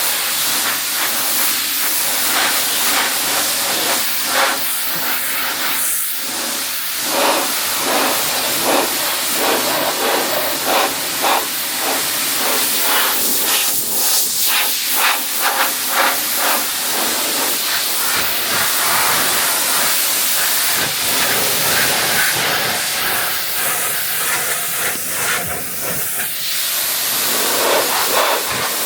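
Pressure washer spray hissing steadily, its jet spattering and changing tone as it sweeps across a car's body panels.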